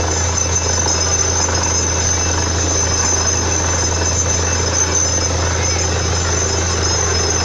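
Borewell drilling rig running steadily under power, a deep engine hum with a thin high whine over a rough mechanical noise.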